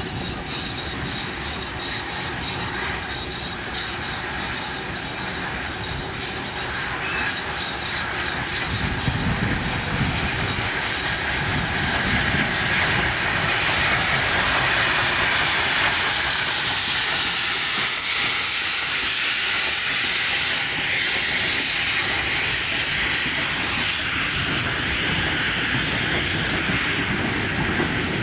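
A steam locomotive train passing, with steam hissing and wheels clicking over the rail joints, growing louder over the first half.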